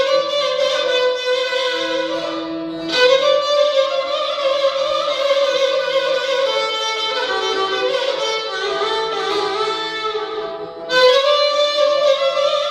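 Instrumental break in a Turkish folk song: a bowed string instrument plays the melody in long, sustained phrases, with new, louder phrases starting about 3 seconds and about 11 seconds in.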